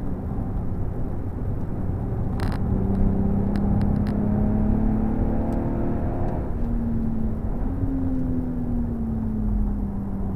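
BMW M135i's turbocharged straight-six with M Performance exhaust, heard from inside the cabin under hard acceleration over steady road and tyre noise. The engine note climbs, drops sharply with a gear change about six seconds in, climbs again, then falls steadily toward the end. A few short clicks sound early on.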